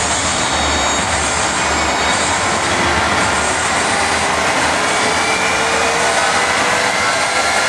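Jet engine running, a loud steady roar with a faint whine slowly rising in pitch.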